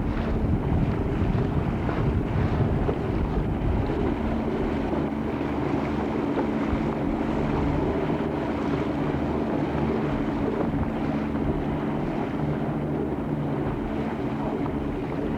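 Wind buffeting the microphone on a moving boat, heaviest in the first few seconds, over a steady hum from an engine.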